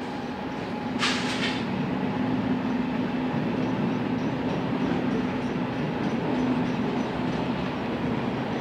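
Freight train rolling past: a steady rumble of locomotives and cars moving over the rails, with a brief hiss about a second in.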